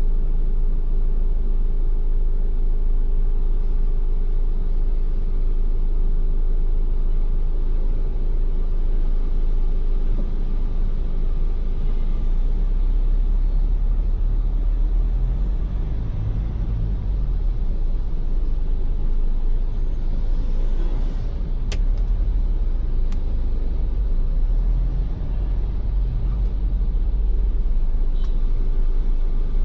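Ford Everest SUV driving on wet roads, a steady low rumble of engine and road noise heard from inside the cabin. A single sharp click comes about two-thirds of the way through.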